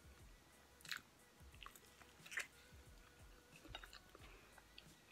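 Faint chewing of a mouthful of Mexican street corn, with a few soft crunchy clicks, the clearest about two and a half seconds in.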